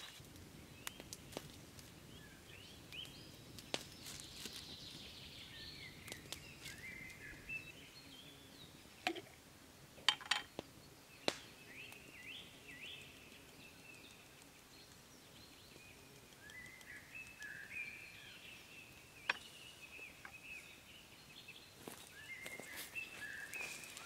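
Small birds chirping and warbling, with a few sharp clicks or snaps scattered through, the loudest about ten seconds in.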